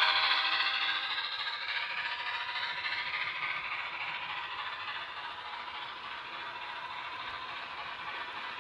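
HO scale model train running on the layout's track, its wheels and running gear making a continuous clattering rattle that fades over the first few seconds as it moves away, then carries on more faintly.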